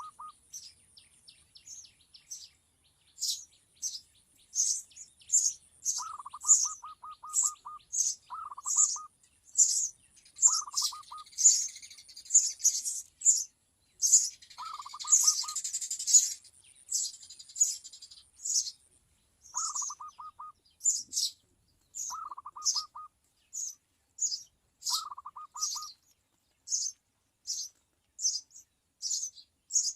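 Birds chirping: a steady run of short, sharp, high chirps, about one or two a second. Every few seconds a short, lower, fast-pulsed trill from a second call type cuts in.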